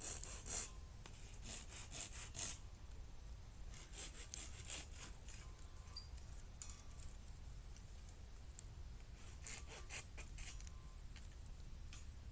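Faint crackling of burning bamboo: quick clusters of small cracks and scratchy clicks, four or so groups spread through the few seconds, over a low steady rumble.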